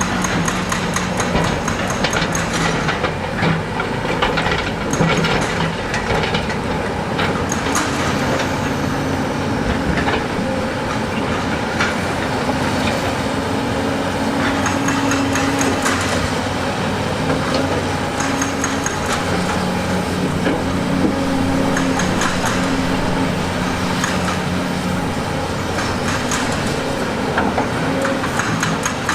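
Heavy diesel earthmoving machine running and working, its engine note shifting up and down several times, with frequent clanks and knocks of metal and stone.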